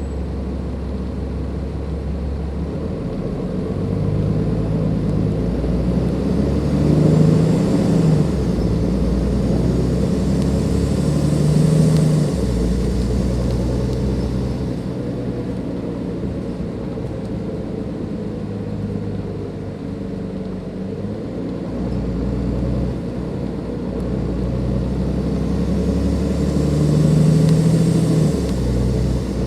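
Dennis Enviro 500 double-decker bus's Cummins ISLe diesel engine pulling through its ZF Ecomat automatic gearbox: the engine note climbs and drops sharply about a third of the way in and again a few seconds later, eases off through the middle, then climbs again near the end. A faint turbo whistle rises along with the louder pulls.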